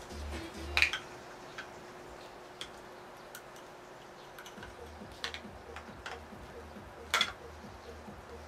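Sharp clicks and clinks of small parts and tools as a robot sumo machine is taken apart, the two loudest about a second in and near the end. A low pulsing beat runs underneath, dropping out for a few seconds in the middle.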